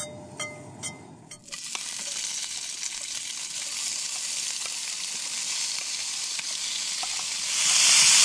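A few short clicks, then diced Spam frying in a pan on a gas camping stove: a steady sizzle that starts about a second and a half in and grows louder near the end as more pieces are tipped into the hot oil.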